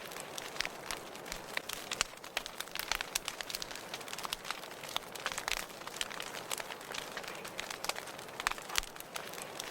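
Wood fire burning in a fireplace, crackling and popping irregularly: many sharp, quick pops over a steady soft hiss.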